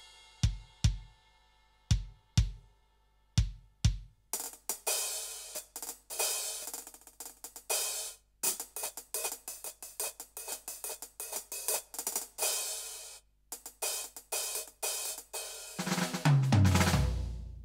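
Roland TD-17KVX electronic drum kit played through its module: spaced pairs of bass drum hits at first, then a busy, fast groove on cymbals and hi-hat with snare and kick. Near the end comes a fill of drum notes falling in pitch.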